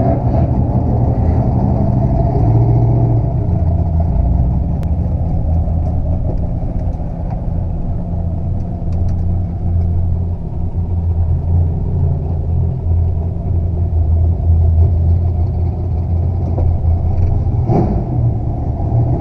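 Turbocharged inline-six of a 1987 Toyota Supra (Mk3) running at low revs as the car creeps along, a steady low rumble heard from inside the cabin.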